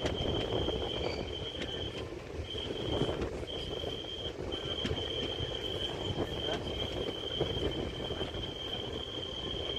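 Indian express train running at speed, heard from inside the coach: a steady rumble with occasional clicks from the wheels, and a thin high whine that breaks off in short gaps.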